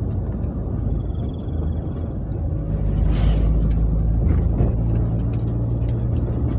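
Low engine and road rumble heard inside a moving ambulance's cabin, growing louder about three seconds in.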